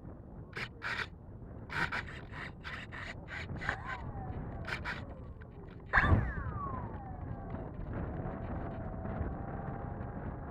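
Wind noise on the microphone with the whine of a small electric RC airplane's motor. About six seconds in a loud rush comes as the plane passes, its whine falling in pitch, then settling into a steady whine.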